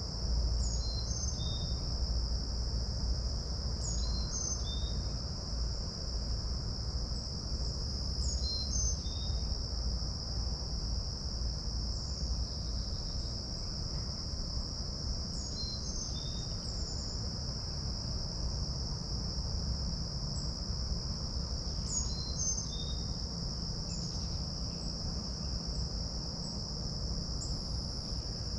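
Insects trill in a steady, unbroken high drone. A songbird repeats a phrase of short, high, down-slurred notes every few seconds, over a low rumble of breeze on the microphone.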